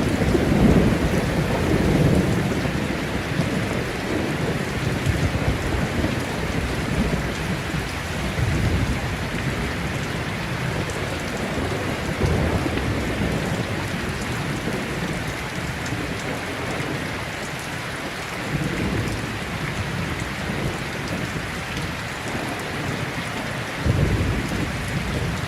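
Heavy rain falling steadily, with thunder rumbling in the first few seconds and dying away, and another short rumble of thunder near the end.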